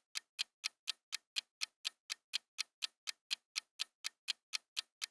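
Clock-style ticking sound effect, even sharp ticks about four a second, marking the countdown while a quiz answer is awaited.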